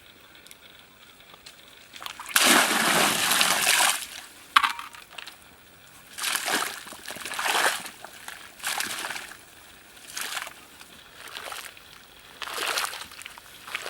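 Water splashing and sloshing in repeated bursts: a long loud splash about two seconds in, then shorter splashes every second or two.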